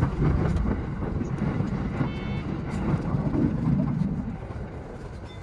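Running noise of an E233 series electric commuter train, a low rumble that fades toward the end, with a brief electronic beep about two seconds in.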